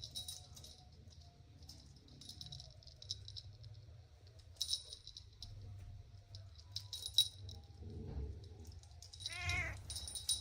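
A kitten meows once, briefly, about nine seconds in. Faint bursts of high-pitched rattling come and go throughout.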